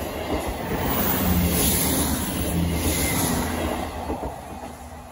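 South Western Railway Class 159 diesel multiple unit passing over a level crossing, with wheel and rail noise and a low rumble that swells every second or so. It dies away over the last second as the train clears.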